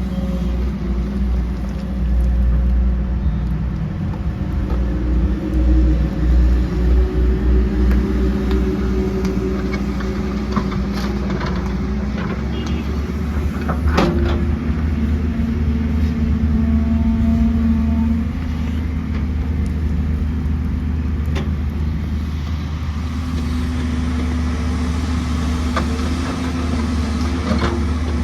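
Heavy diesel machinery running at a steady low rumble, with occasional knocks and clatter and one sharp knock about halfway through.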